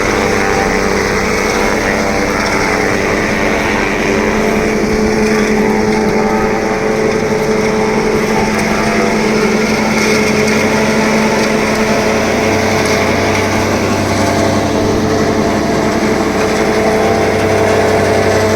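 Tractor engine running steadily under load, driving a silage packing machine, a continuous even drone with no breaks.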